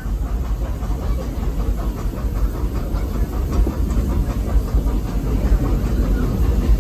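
Steady rumble of a steam-hauled passenger train on the move, heard from aboard a car: wheels rolling on the rails with a hissing noise over it.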